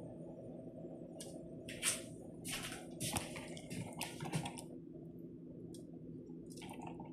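Pastry brush dabbing melted butter onto raw biscuit-dough balls: soft, wet, irregular strokes, a few each second, over a low steady hum.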